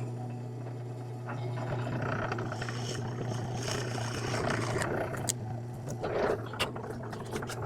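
Drill press running with a steady hum as the bit bores through plywood; the cutting noise starts about a second in and a few sharp clicks come near the end.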